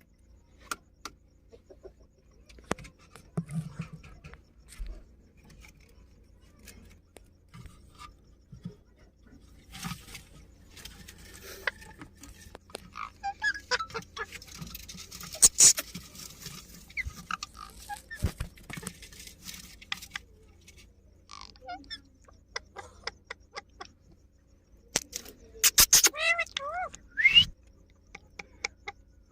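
Indian ringneck parrot: scattered small clicks and scratches, then near the end a quick run of bending, chattering calls, the last one sliding sharply upward.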